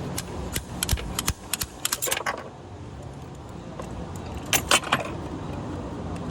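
Metal tools and small metal parts clinking and clacking in a quick run of sharp clicks, then a short second cluster a couple of seconds later, over a steady low hum.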